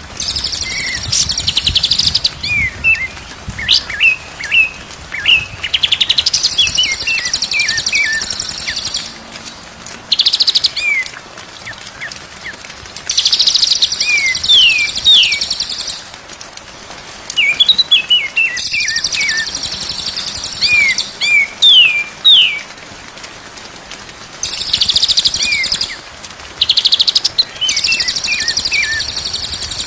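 White-rumped shama singing: phrases of short whistled notes that slide up and down in pitch, alternating every few seconds with loud, harsh buzzing rattles.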